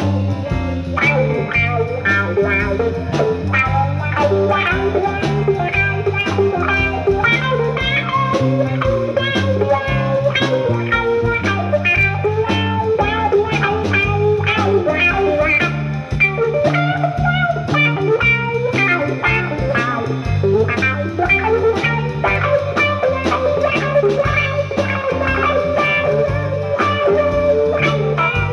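Live band playing an instrumental jazz-funk piece, with guitar and bass guitar over drums, a steady rhythm throughout.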